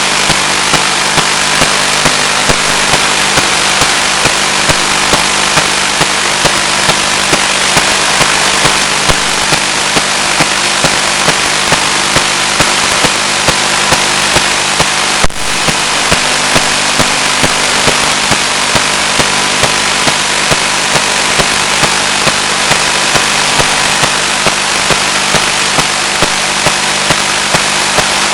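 Steady loud static hiss from an analog 1.3 GHz FPV video link's audio channel, with a low hum under it and small regular clicks. There is a brief break in the hiss about fifteen seconds in.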